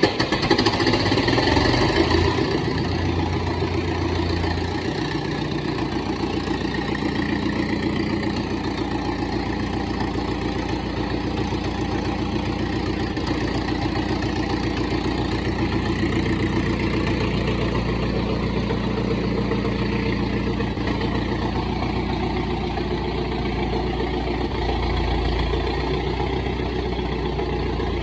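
Vintage tractor engine idling steadily.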